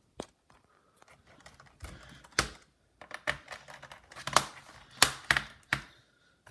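Irregular plastic clicks, taps and clatters from handling a Dell Inspiron 1545 laptop's case parts and small tools during reassembly, with several sharper knocks in the second half.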